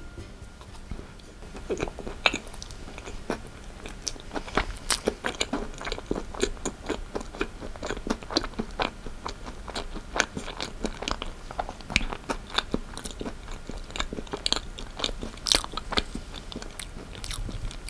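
Close-miked chewing of Dutch salt caramel cake, with many irregular small crunches from the crisp puffed rice and nuts inside the caramel cream.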